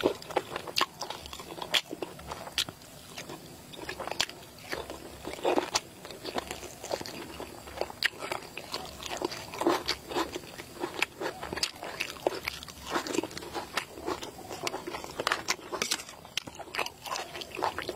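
A person chewing a mouthful of egg and spicy chilli salad, with many sharp wet mouth clicks and short crunches every second or two.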